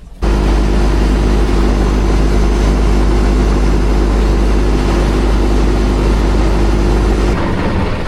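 A vehicle's engine running steadily while driving, with a heavy, deep rumble. It starts abruptly and drops away shortly before the end.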